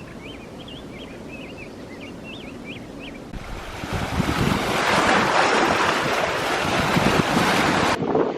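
Surf breaking on a beach: a wave comes in loud about three seconds in and the rush of water stays loud, with wind buffeting the microphone. Faint high chirps can be heard before the wave.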